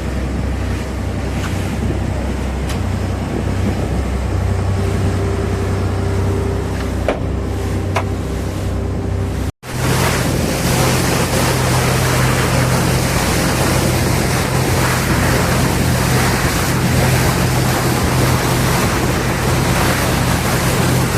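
A boat's engine running steadily under a loud rush of water and wind. The sound breaks off for a moment about ten seconds in, then resumes with a higher, louder engine hum.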